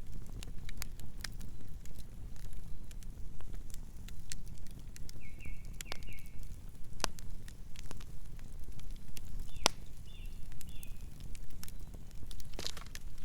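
Wood campfire burning, with a steady low rumble of flames and sharp, irregular crackles and pops. A few short, high chirps come through twice, about halfway in and again later.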